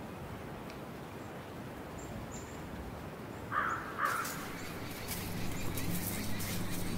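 Two short, loud bird calls about half a second apart, a little past the middle, over faint outdoor background noise with a few thin high chirps. From about five seconds in, a low steady hum joins in, with scattered high clicks.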